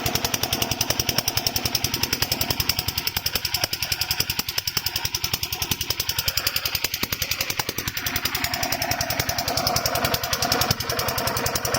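Small single-cylinder diesel engine of a 5 HP water pump running steadily, with a rapid, even knock from each firing stroke.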